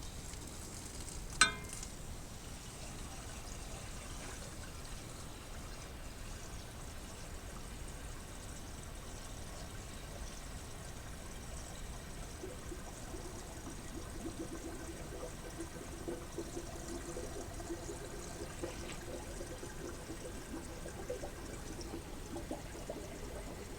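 Water from a garden hose running into the coolant filler of a Cat D6B engine, a steady pouring sound, as the cooling system is filled to test for leaks after a missing freeze plug was refitted. A sharp click about a second and a half in, and a faint steady tone in the second half as it fills.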